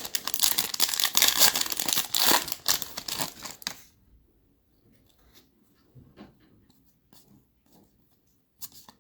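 A trading card pack's wrapper being torn open and crinkled for about four seconds, then a few faint clicks of cards being handled.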